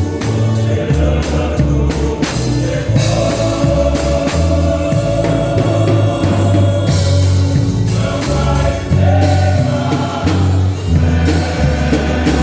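Gospel music: voices singing together over a band, with a moving bass line and a steady drum beat.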